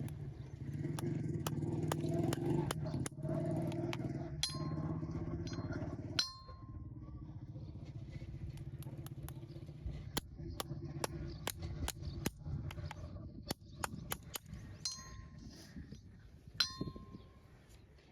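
A steady low engine drone, like a small motor running nearby, fades out near the end. Sharp metallic clinks and taps sound over it, a few ringing on briefly.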